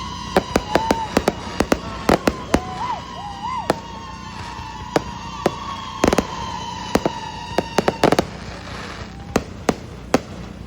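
Aerial fireworks exploding: a rapid, irregular series of sharp bangs, some in quick clusters around 2 s and 6 to 8 s in. Under them runs a steady high tone that slowly drops in pitch.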